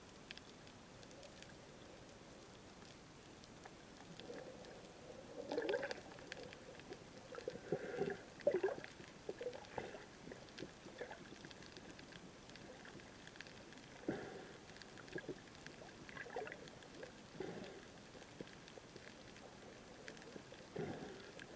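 Faint water sloshing and gurgling in scattered short, irregular splashes, starting about four seconds in.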